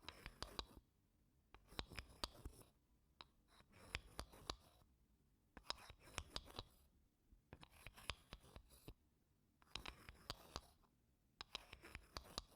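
Wooden spoon scraping across wooden blocks in short, soft strokes. There is one stroke about every two seconds, each a cluster of small dry ticks and scratches lasting under a second.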